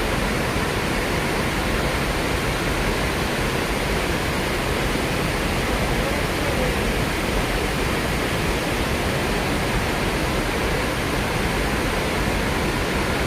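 Steady rush of the falls on the Snake River, an even noise of moving water with no breaks.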